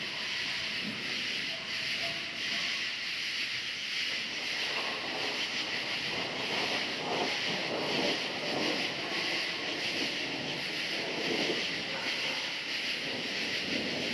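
Crickets chirping in a steady, unbroken chorus, over a low rushing noise that grows a little about four seconds in.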